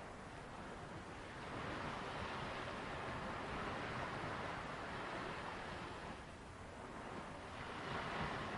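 Sea waves washing onto a beach: a steady rush of surf that swells about a second and a half in, eases around six seconds in, and swells again near the end.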